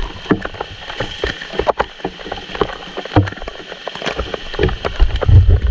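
Heavy rain striking the camera and microphone: many scattered sharp ticks over a steady hiss, with low wind rumble building near the end.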